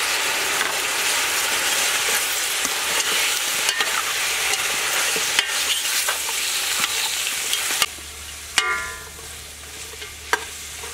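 Duck pieces frying in a metal pot, sizzling steadily while a metal utensil stirs and scrapes through them. About eight seconds in the sizzle falls away, leaving a few sharp clinks of the utensil against the pot.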